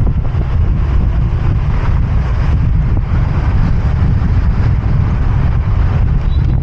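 Riding a motorbike: a steady, loud low rumble of wind buffeting the microphone, with the bike's engine and road noise underneath.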